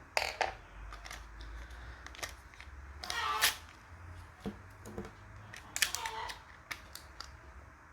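Scattered small clicks and short rustles of hands handling a laptop RAM module and the opened laptop's plastic parts.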